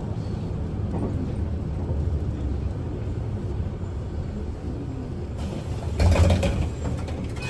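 Steady low engine and road rumble inside a Kyoto City bus in motion, with a brief louder clatter near the end.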